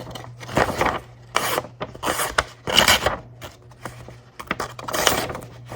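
Knife blade being drawn across a water-wetted sharpening stone in several separate strokes, with a pause a little after the middle.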